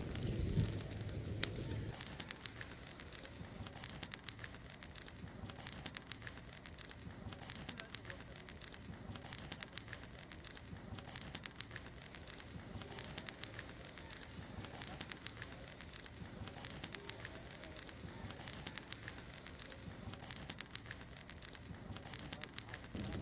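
Bonfire crackling with scattered sharp pops, under a steady high chirping from the night background that comes in pulsing groups about every two seconds.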